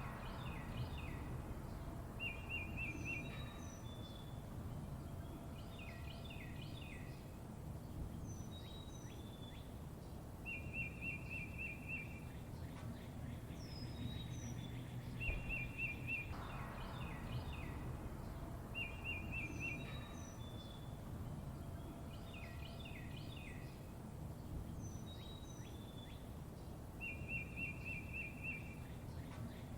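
Songbirds chirping over a steady low background rumble: short, rapid high trills recur every few seconds, alternating with clusters of quick downward-sliding chirps. The same sequence comes round again about every 16 seconds, like a looped recording.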